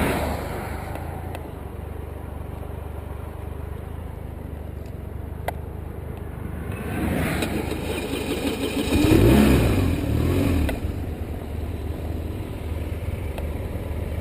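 A motor vehicle engine runs steadily. About seven seconds in it gets louder for a few seconds, its pitch rising and falling, then settles back.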